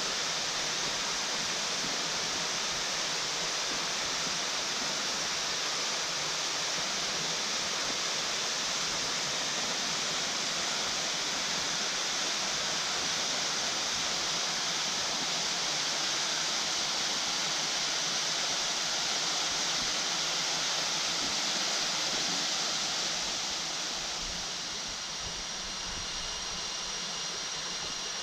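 Waterfall rushing steadily, a dense hiss of falling water. It eases slightly near the end, where a faint high steady tone comes in.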